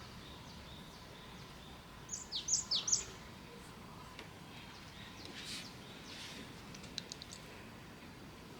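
A bird singing: a quick burst of high chirps falling in pitch about two seconds in, then fainter chirps a few seconds later.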